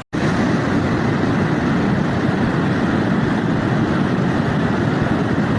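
Heavy hail pounding down in a dense, continuous clatter of countless impacts, starting abruptly just after the start.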